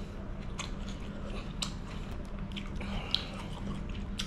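Close-miked chewing of chicken curry, with scattered wet mouth clicks and smacks, while fingers pick at chicken pieces on the plate. A low steady hum runs underneath.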